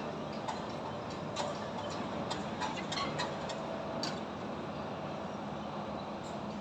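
Irregular light knocks and clinks from building construction work, about a dozen in the first few seconds, over a steady hum of city traffic.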